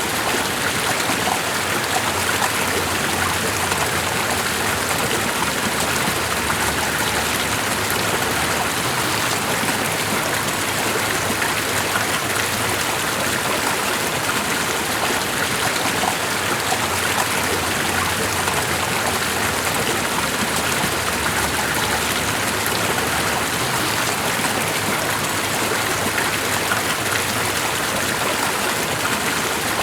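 Steady, even rush of a flowing stream, with fine splashing.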